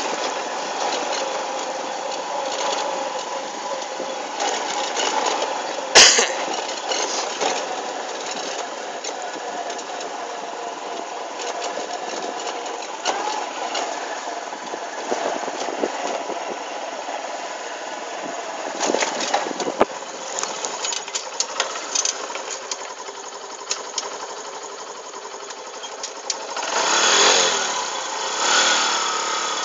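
TVS motorcycle engine running steadily as the bike is ridden, with a sharp click about six seconds in and a louder swell near the end.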